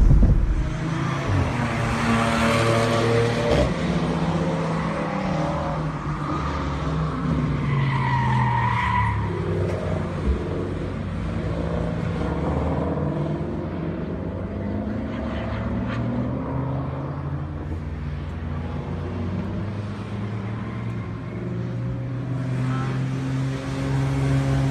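Car engine heard from inside the cabin, its pitch rising and falling repeatedly as it is driven hard on track, with a brief high squeal about eight seconds in.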